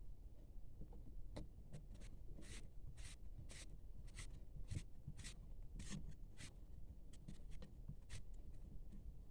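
Packaging being handled and opened, giving a run of short, irregular scratchy rustles.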